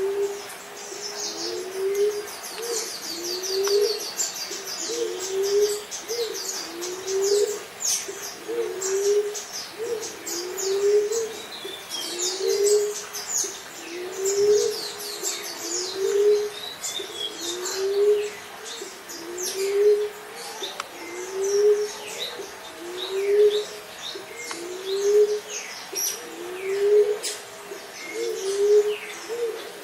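Emerald dove cooing: a low, rising coo repeated steadily about once a second. High, quick chirps of small songbirds run above it, thickest in the first half.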